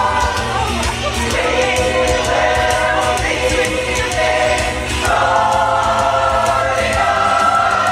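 Pop choir singing in harmony over a steady low accompaniment, with a long held chord through the last few seconds.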